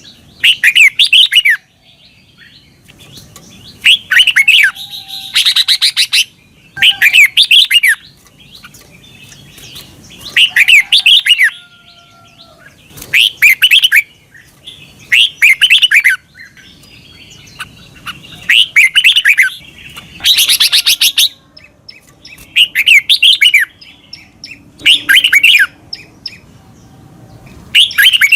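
Red-whiskered bulbul singing loud, quick warbled phrases about a second long, a new phrase every two seconds or so.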